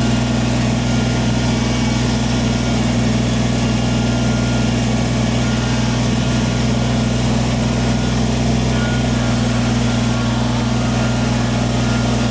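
Kubota tractor's diesel engine running at a steady speed, an even drone with no change in pitch.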